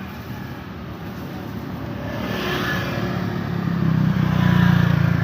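Road traffic: a steady hum of cars and motorbikes, with one vehicle's engine growing louder as it approaches and passes close, loudest about four to five seconds in.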